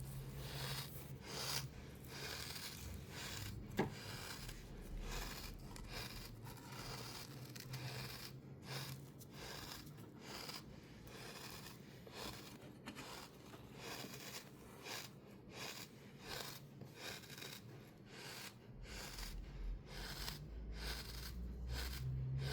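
Crunchy sand being cut and scraped, a steady run of short crisp crunches about two a second, with one sharper click about four seconds in.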